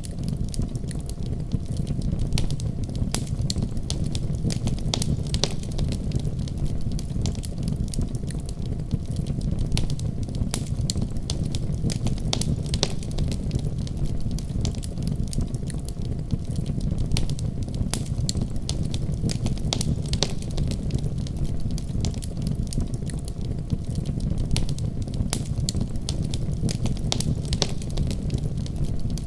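Wood fire burning in a fireplace: a steady low rumble of flames with frequent irregular crackles and pops from the burning wood.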